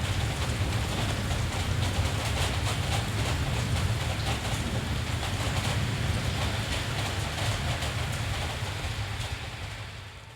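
Steady rain falling over a city, with a constant low rumble underneath; the whole sound fades out near the end.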